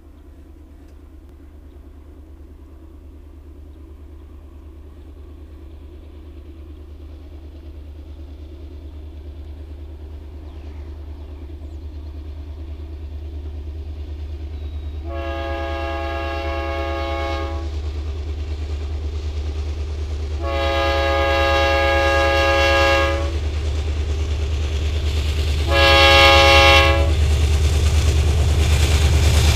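BNSF freight train approaching a grade crossing, its low rumble growing steadily louder. About halfway through, the locomotive's air horn sounds two long blasts and then a short one, the start of the standard grade-crossing horn signal.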